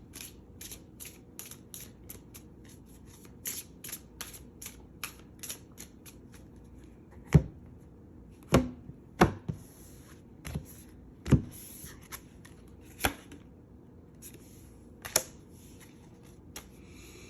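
A deck of tarot cards being handled and shuffled, with many quick light clicks of cards against each other, then several sharper card knocks about a second or two apart as cards are slapped or tapped down on the table.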